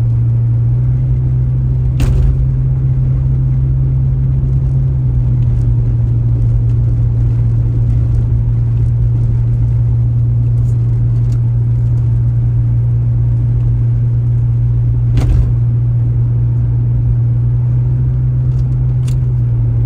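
A car's steady low engine and road drone, with two brief sharp knocks, one about two seconds in and another about fifteen seconds in.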